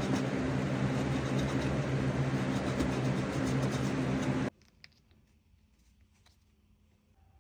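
Steady whir of an electric motor with a low hum, cutting off abruptly about four and a half seconds in; after it, only faint light clicks and handling.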